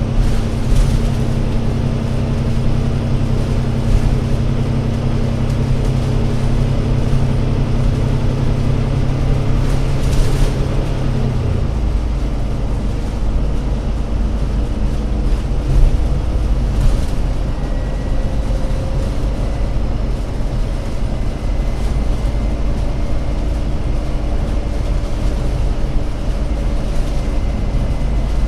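Diesel engine of an ADL Enviro500 MMC Euro 6 double-decker bus running steadily; about twelve seconds in its note drops to a lower, deeper hum. A few short knocks or rattles are heard, and a faint high whine joins in the second half.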